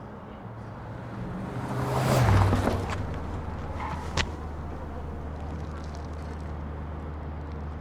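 A motor vehicle passes with a rush that swells and fades around two seconds in, leaving a steady low engine hum; a single sharp click about four seconds in.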